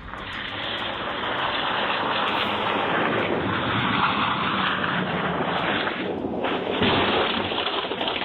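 Steady rushing vehicle noise that builds over the first couple of seconds and drops away at the end.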